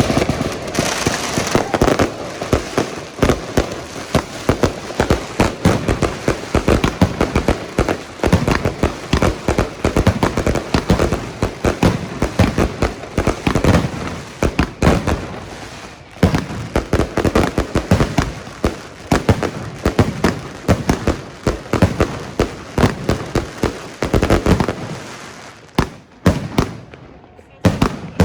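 Many fireworks and firecrackers going off at once: a near-continuous barrage of sharp bangs and crackles, several a second, thinning out with short gaps near the end.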